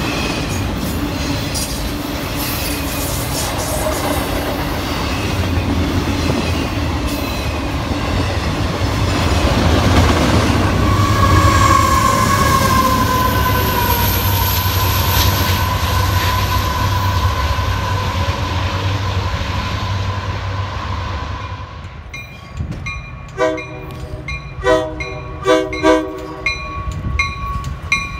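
Double-stack intermodal freight train rolling past, its wheels rumbling on the rails, with the deep drone of BNSF diesel locomotives passing midway. A locomotive horn sounds for several seconds, its pitch dropping slightly as it goes by. After an abrupt change near the end comes a run of sharp ringing strikes about once a second as a commuter train passes.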